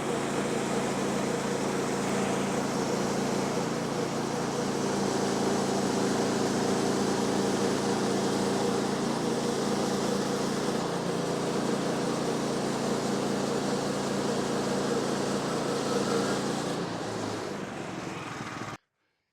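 Woodland Mills HM126 sawmill's engine running steadily, cutting off abruptly near the end.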